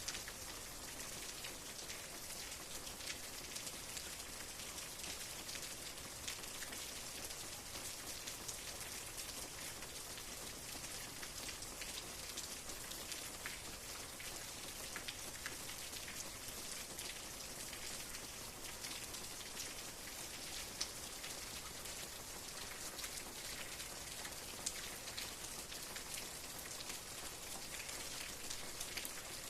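Steady rain falling, an even hiss with many small individual drop ticks scattered through it.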